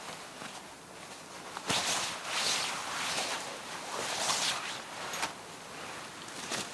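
Irregular rustling and swishing from close handling or movement, with a sharp click about a second and a half in.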